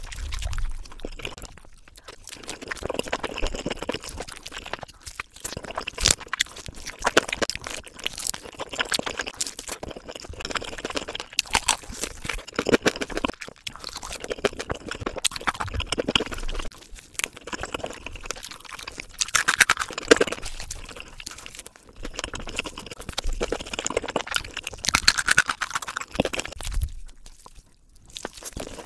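Close-miked chewing of rotisserie chicken: wet smacking mouth sounds and soft crunches in uneven bursts, with the meat and skin being torn apart by gloved hands.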